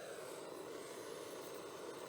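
Campfire burning: a steady rushing noise with a few faint crackles.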